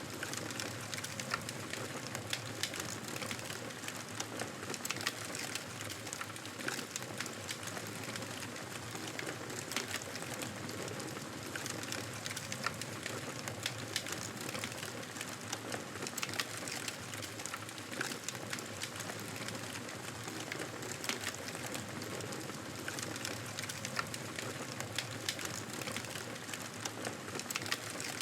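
Campfire burning steadily, wood crackling with a dense run of small sharp pops over a constant hiss.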